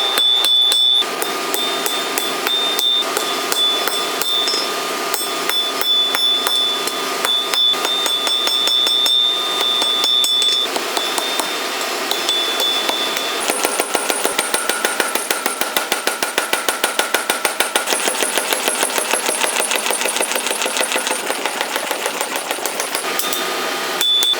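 Steel being forged from excavator spring: irregular hammer blows on the metal for the first half, then a fast, even pounding of about five strokes a second that stops a little before the end.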